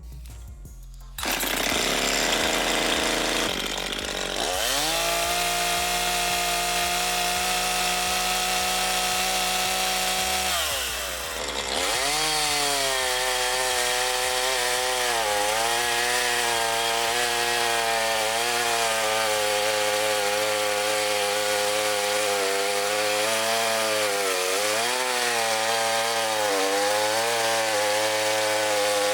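Makita DCS5121 50 cc two-stroke chainsaw engine running: it comes in loud about a second in and climbs to high revs. It dips briefly near the middle, then runs on at high speed with small wavers in pitch.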